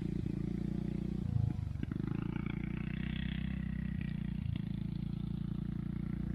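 Yamaha Grizzly 600 ATV's single-cylinder four-stroke engine running steadily, with a brief swell in revs about a second and a half in.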